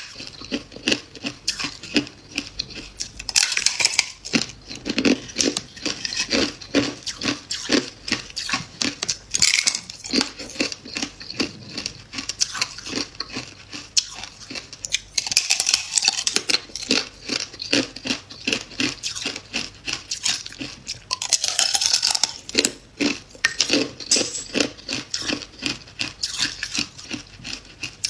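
Freezer frost being bitten and chewed close to the microphone: a dense run of crisp crunching and crackling, with louder spells every few seconds.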